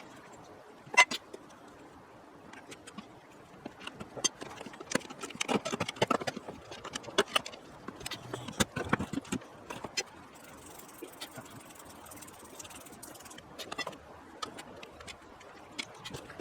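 A series of irregular clicks and knocks, thickest in the middle, with quieter stretches either side.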